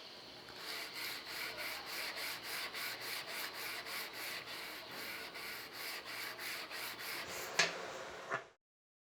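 Rapid back-and-forth rubbing strokes, about three or four a second, of hand scrubbing or sanding on a rusty typewriter part. Two sharp knocks come near the end, and then the sound cuts off abruptly.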